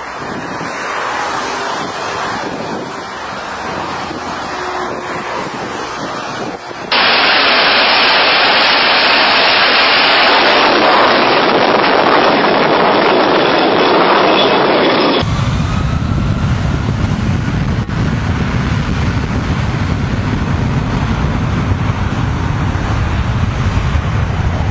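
Airplane noise, a steady rush of engine and wind with no clear pitch. It changes abruptly twice: about 7 s in to a louder hiss, and about 15 s in to a heavy low rumble.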